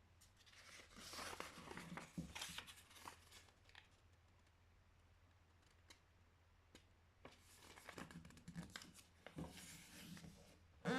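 A sheet of printer paper handled and folded by hand, rustling and crackling as the creases are pressed, in two stretches with a quiet pause between.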